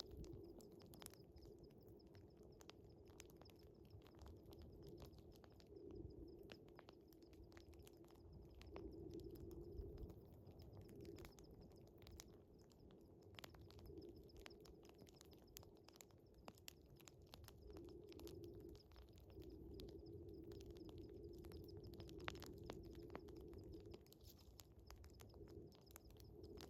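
Faint wood fire crackling, with irregular sharp pops and snaps, over a steady high chirring of night crickets. A low hum swells and fades several times.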